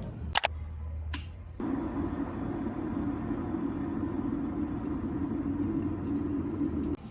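A couple of sharp clicks, then a steady mechanical hum, like a small household appliance running, that starts suddenly and cuts off abruptly just before the end.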